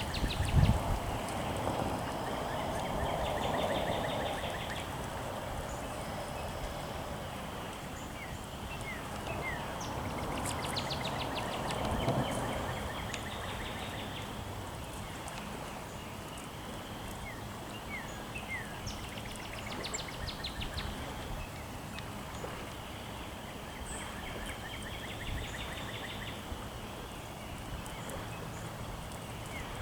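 Birds singing: a short high trill repeats about every ten seconds, with scattered short chirps between, over steady outdoor background noise that swells twice in the first half.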